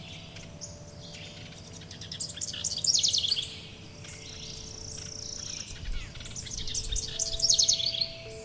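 Forest songbirds singing: high thin chips throughout, and two louder songs of rapid repeated notes, one about a third of the way in and one near the end. Faint steady tones hold underneath.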